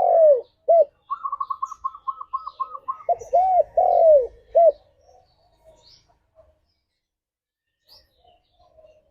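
Spotted dove cooing. One phrase ends just at the start, and a second phrase of three or four rising-and-falling coos comes about three seconds in. Between the two phrases there is a quick run of about ten higher, shorter notes, and only faint scattered chirps follow.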